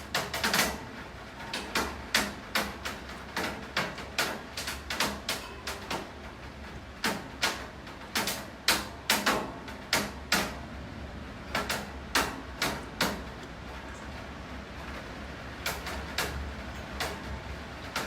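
Rain, with large drops striking a hard surface in sharp, irregular taps, several a second at times and sparser for a few seconds in the later part, over a steady hiss of rainfall.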